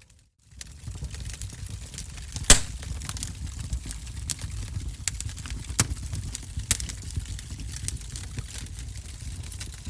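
Wood fire in a fireplace crackling: a steady low rumble of flames with frequent sharp pops and snaps, the loudest about two and a half seconds in. The sound drops out almost completely for the first half second before the fire returns.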